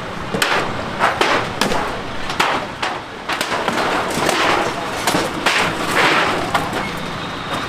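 Demolition debris clattering and crashing: repeated knocks, thuds and rattles of a wooden-and-metal booth being broken up and thrown down, many sharp hits a second or so apart over a rough, hissing street din.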